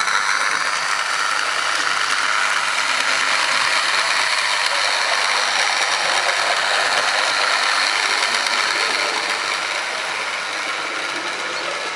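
Airfix OO gauge GWR 61xx model tank locomotive running with three coaches up a 1 in 18 gradient, its brushed electric motor and gears giving a steady, noisy mechanical whirr and rattle that eases slightly near the end.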